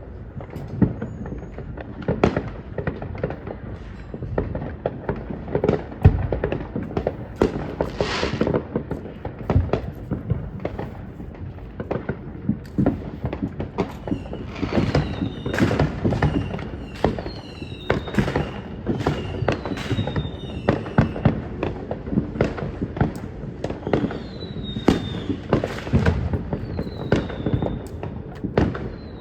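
Fireworks going off: a continual run of bangs and crackling pops. From about halfway on there are repeated short falling whistles.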